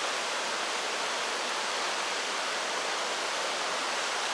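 Mountain stream running: a steady rush of flowing water.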